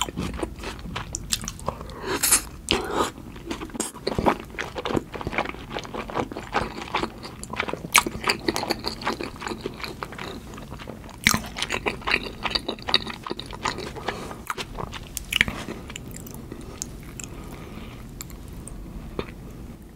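Close-miked chewing of a large mouthful of salmon sushi in tartar sauce: wet mouth smacks mixed with many sharp, irregular crisp clicks, thinning out in the last few seconds.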